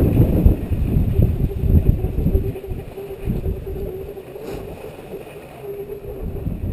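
Blizzard wind buffeting a head-mounted GoPro's microphone: a gusty, low rumble that eases off through the middle and builds again near the end.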